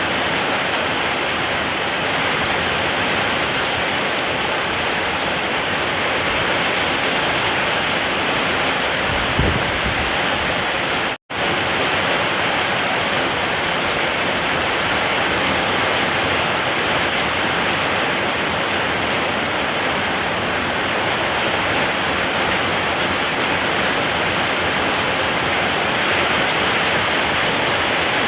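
Steady, heavy rain falling, a dense even hiss. There is one brief low thump about nine seconds in, and the sound cuts out for an instant a couple of seconds later.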